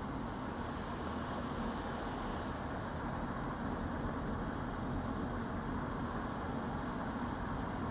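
Car driving along a road: steady engine and tyre noise, even throughout.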